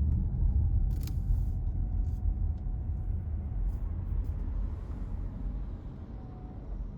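A car driving, its low engine and road rumble steady and fading out gradually, with a sharp click about a second in.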